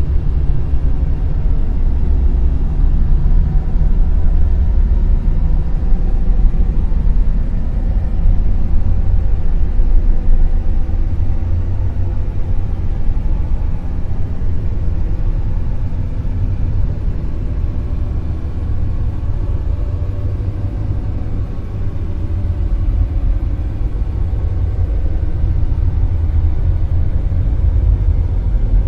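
Dark noise: a steady, deep hiss-like rumble, its energy mostly in the low bass, that slowly swells and eases in loudness.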